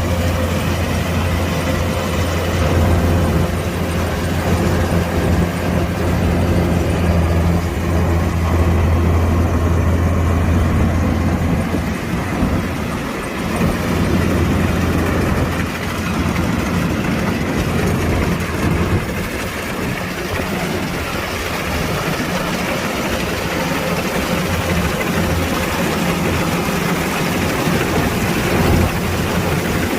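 Kubota DC-105X combine harvester's diesel engine running, with a strong steady low hum that turns uneven about twelve seconds in.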